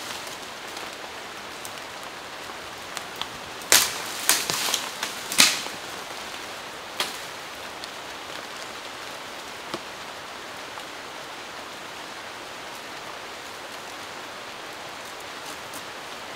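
Steady rain falling, with a quick run of four or five sharp knocks or cracks about four to five and a half seconds in and one more near seven seconds.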